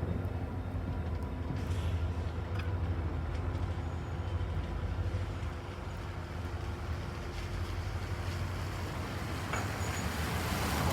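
A diesel engine rumbling steadily at a low pitch, with a few light clicks; the noise swells near the end.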